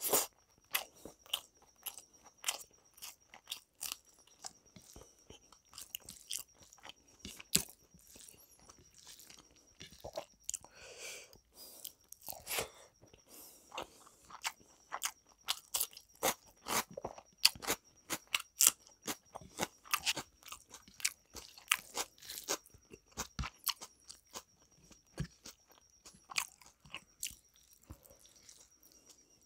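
A man chewing a mouthful of rice and chicken curry, with many short, irregular clicks from the mouth and the food.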